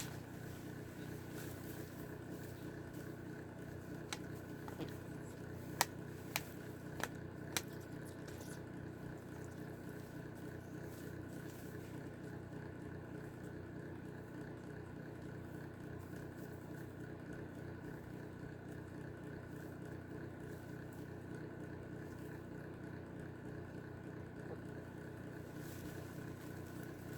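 Steady mechanical hum of a running heater, with a few sharp taps between about four and eight seconds in.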